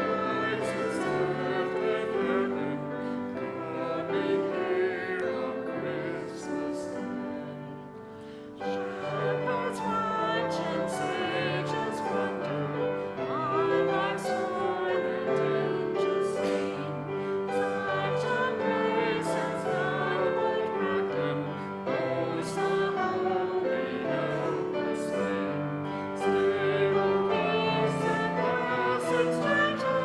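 Church congregation singing a hymn to instrumental accompaniment, with a short lull about eight seconds in between lines.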